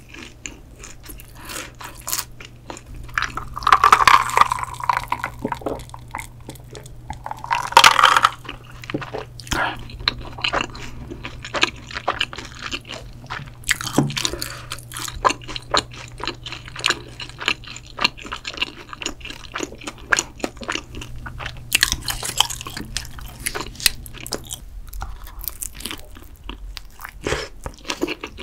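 Close-miked chewing and biting of shrimp pizza with a thick bread crust: crisp crunches stand out among softer chewing. A faint low hum underneath stops near the end.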